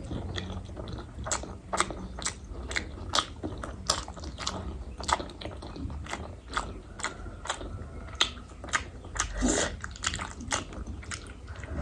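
A person chewing food close to the microphone, with a run of sharp mouth clicks and smacks about two to three a second.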